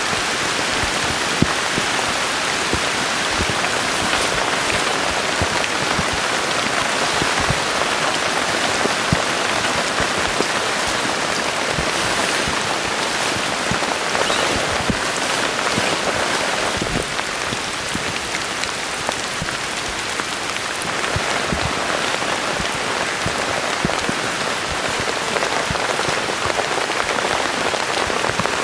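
Heavy rain falling steadily, with many individual drops striking close by.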